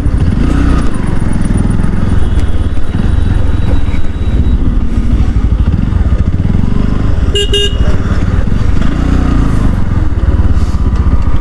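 Motorcycle engine running while riding, heard from an on-bike camera as a steady low rumble. About two-thirds of the way through, a vehicle horn sounds twice in quick succession.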